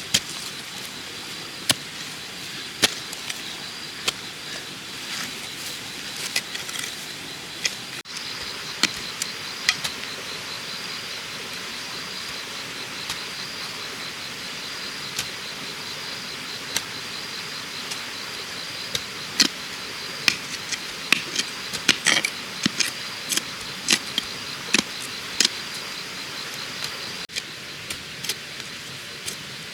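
Insects trilling steadily in a fast, even pulse, with scattered sharp knocks and clicks that come thickest past the middle.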